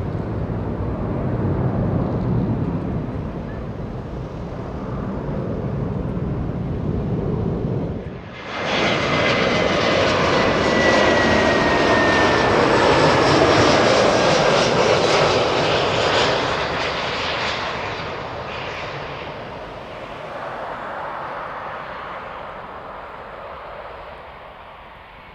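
Jet airliner engine noise. It begins as a low rumble, then about eight seconds in switches abruptly to a louder, brighter jet roar with a thin whine slowly falling in pitch, which peaks and then fades away near the end.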